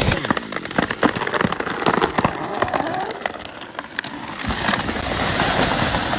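Wood splintering and cracking in a rapid run of sharp snaps, as a big tree gives way and crashes through branches. About four seconds in, a steadier chainsaw-like sound takes over.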